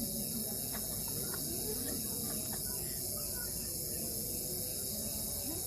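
Crickets chirping in a steady, unbroken chorus, high-pitched and even throughout.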